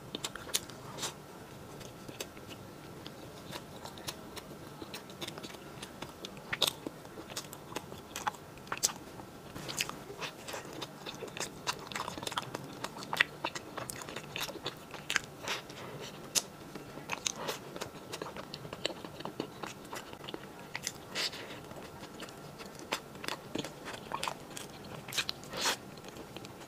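A person chewing and biting a dense sponge cake topped with blueberries and almond flakes: wet mouth sounds with many small clicks and crunches scattered throughout.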